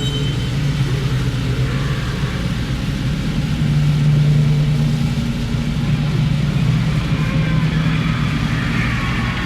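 Harsh noise music: a dense, steady low drone with a rough, noisy hiss layered above it, getting a little louder about four seconds in.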